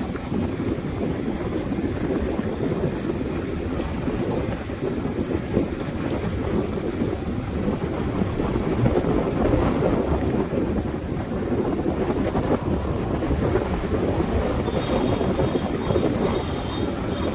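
Wind buffeting the microphone on a moving motorbike, a steady rough rush, with the bike's running mixed in. A faint high tone appears for a couple of seconds near the end.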